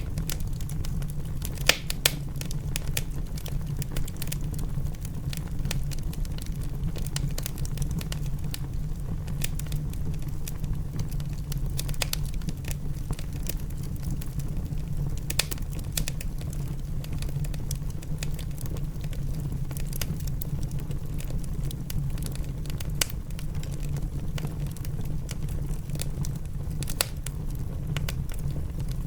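Wood fire in a fireplace crackling, with irregular sharp pops over a steady low rumble; the loudest pops come about two seconds in.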